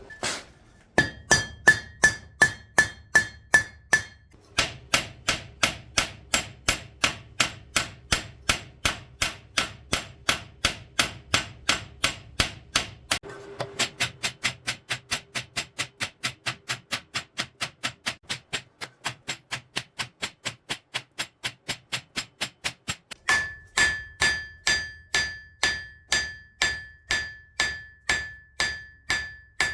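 Hand hammer striking hot steel on an anvil in steady blows, about three a second, pausing briefly twice. In the first and last stretches each blow sets the anvil ringing with a bright tone.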